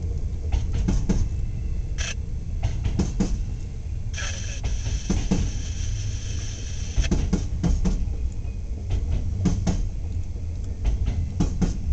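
Intermodal freight train of trailers on flatcars rolling past: a steady low rumble with scattered clicks and clanks of wheels over rail joints, and a high hiss for a second or so about four seconds in.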